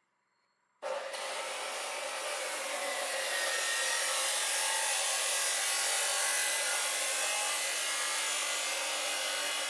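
A power tool starts abruptly about a second in and runs steadily, giving off a loud, even, hissy working noise.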